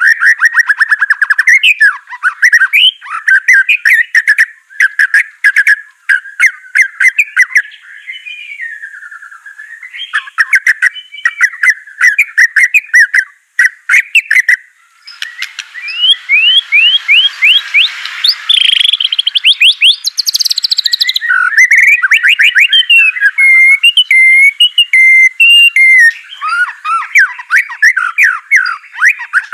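White-rumped shama singing continuously: a loud, varied song of quick whistled phrases, trills and sharp clicking notes. About halfway through comes a noisier passage of fast rising chirps.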